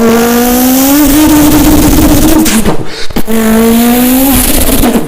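A person's voice imitating a car engine accelerating: a rising hum like revs climbing, breaking into a rough rasp, a short break about three seconds in like a gear change, then climbing again.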